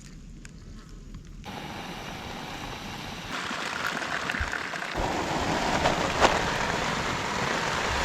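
Heavy rain falling steadily, growing louder in a few sudden steps, with a single sharp tick a little after six seconds in.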